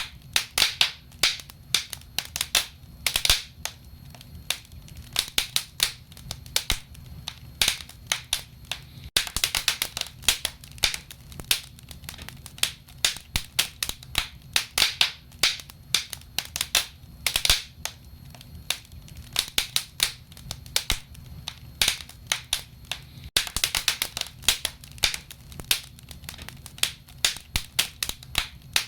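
Wood fire in a fireplace crackling: a dense, irregular run of sharp pops and snaps over a low steady rumble.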